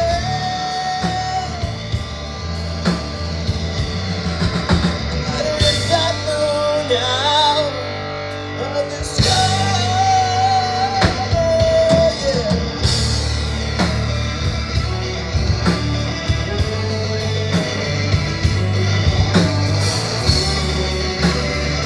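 Live rock band playing electric guitar over a drum kit, with long held lead notes near the start and again about halfway through.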